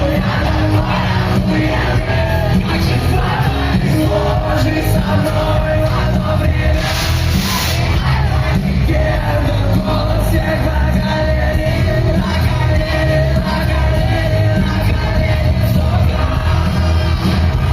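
Loud live band music in a concert hall: heavy bass under a singer's long held notes, with the crowd yelling along.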